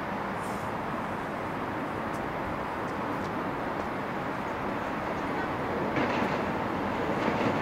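A passenger train approaching on the track, its rumble growing louder about six seconds in, with the first wheel clicks over the rail joints near the end, over a steady background rumble.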